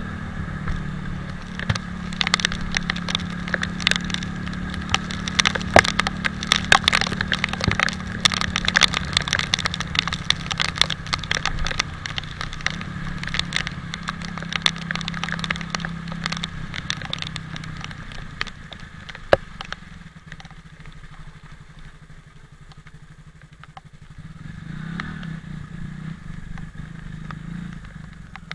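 Italika 250Z motorcycle's single-cylinder engine running on the move, under dense crackling clicks of rain striking the camera. About two thirds in, the engine eases off and goes quieter, then picks up again near the end.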